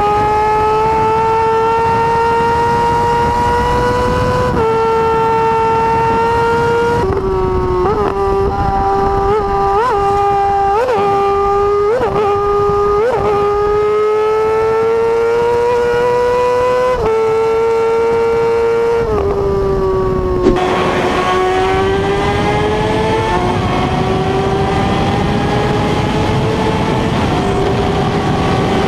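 Sportbike engine held at high revs, a steady whine slowly climbing in pitch, with a few quick sharp revs about a third of the way in. About two-thirds through the pitch dips, then picks up again under a louder rush of wind noise.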